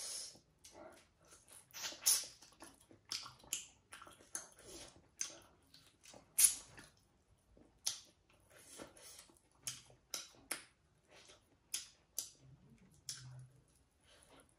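Close-miked mouth sounds of a person chewing pork: an irregular run of wet clicks and lip smacks, a few of them sharper and louder.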